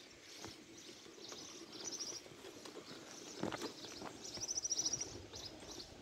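A small bird singing short, high, rapidly repeated trills twice, briefly about two seconds in and longer about four and a half seconds in. Soft footsteps sound on a dirt path.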